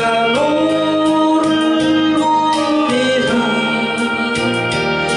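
Religious song: a voice singing long held notes over keyboard accompaniment.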